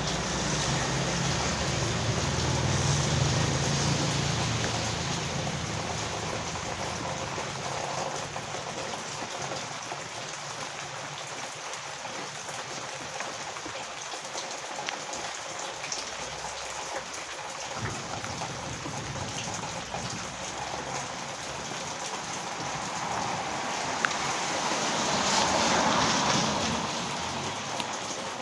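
Heavy rain falling steadily. A low rumble fades away over the first few seconds, and the rain's hiss swells for a few seconds near the end.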